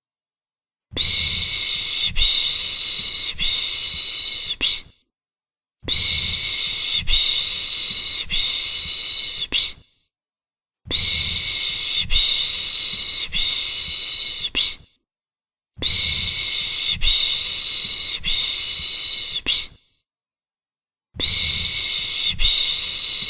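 A person shushing to soothe a baby: 'piş piş piş', three long 'shh' strokes in each group, each group lasting about four seconds with a second's pause between groups, repeating evenly.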